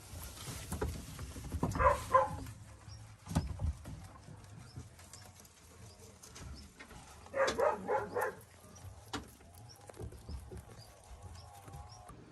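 Short, pulsing animal calls in two bouts, a brief one about two seconds in and a longer one of about five pulses past the middle, with scattered knocks between them.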